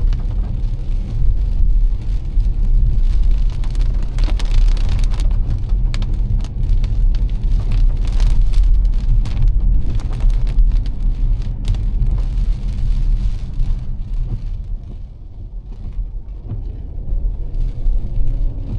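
Car driving in heavy rain: a steady low road and engine rumble, with many sharp raindrop hits on the car. The rumble dips about fifteen seconds in, as if the car slows, then builds again.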